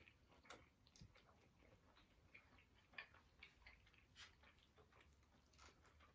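Near silence, broken only by faint, scattered soft clicks at irregular intervals.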